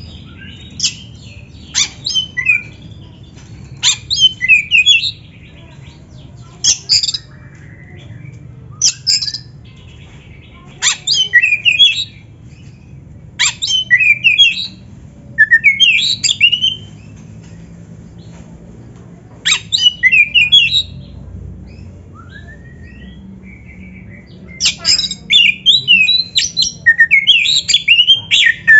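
Oriental magpie-robin singing in short, loud bouts of sharp, rapidly changing whistled notes, with pauses of one to four seconds between them and a longer, denser run near the end. A faint steady low hum lies underneath.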